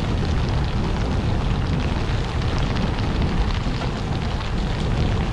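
Steady wind noise rushing over the microphone of a moving bicycle, with tyre noise from a wet road.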